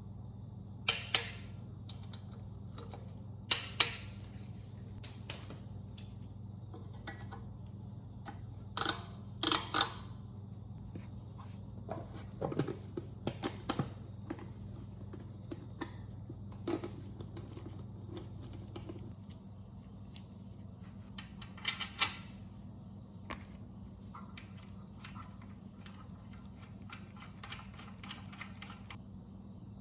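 Scattered sharp metallic clicks and clinks of tools and engine parts being handled, with several loud clicks in pairs, over a steady low hum.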